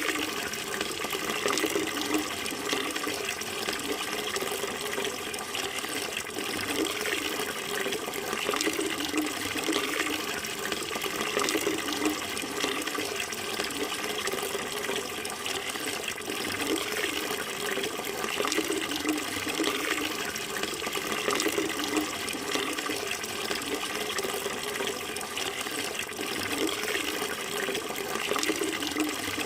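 Water flowing steadily with a constant rushing, splashing sound.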